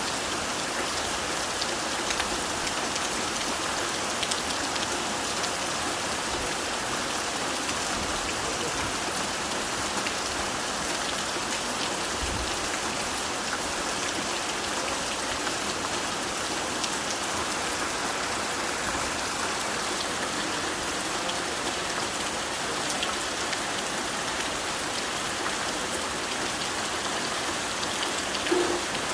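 Steady rain drumming on a tin roof: an even hiss with many small drop impacts, and a single louder knock near the end.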